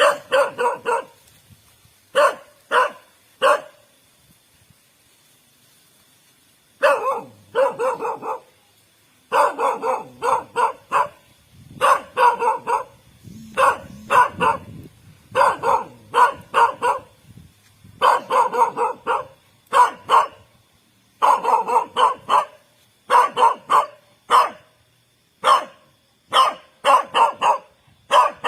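A dog barking in quick runs of sharp barks. The barking pauses for about three seconds a few seconds in, then comes back in denser volleys.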